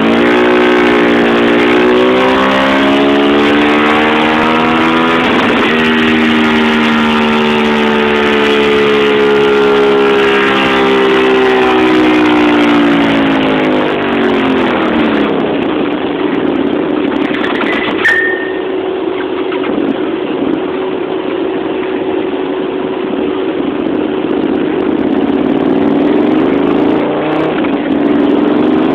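Honda VTR1000F Firestorm's V-twin engine on a chassis dyno, making a long pull under load with its note climbing steadily in pitch for about 13 seconds. It then falls away and runs lower and steadier, with a sharp click about 18 seconds in, and starts to climb again near the end.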